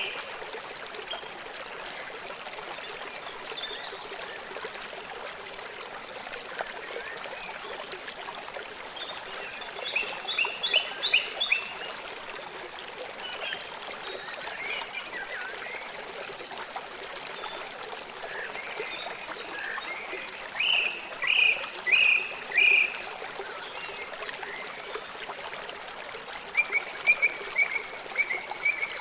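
A stream running steadily, with birds calling over it several times in short series of repeated high notes.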